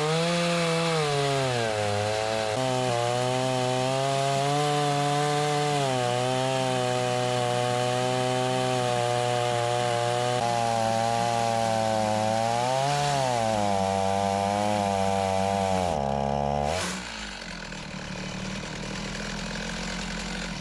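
Two-stroke chainsaw on a chainsaw mill ripping lengthwise through a long log with a skip-tooth ripping chain. It runs loud under heavy load, its pitch sagging and recovering a couple of times as the cut loads it. About sixteen seconds in the throttle is let off and the saw drops to a quieter idle.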